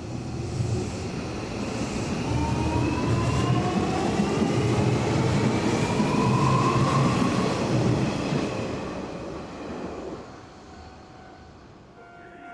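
Hanshin Railway electric train pulling away and picking up speed: its motor whine rises in pitch while wheel and track rumble swells to a loud peak about halfway through, then fades as the train leaves.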